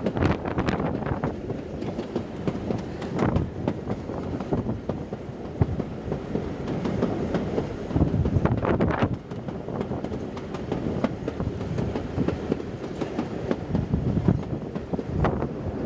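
Steam-hauled passenger train running, heard from an open carriage window: steady rumble with the wheels clattering irregularly over the rail joints.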